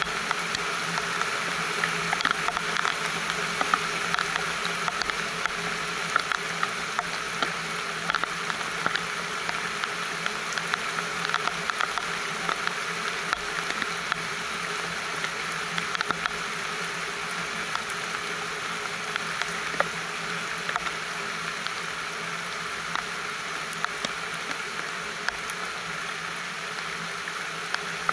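Steady rain falling on a greenhouse roof and the potted plants below, a dense, even patter of countless small drop-clicks.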